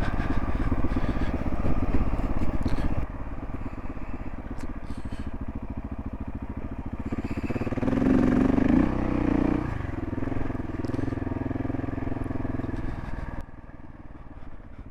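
Single-cylinder adventure motorcycle engine running under way, getting louder and higher for a second or two about eight seconds in, then easing off and dropping away near the end.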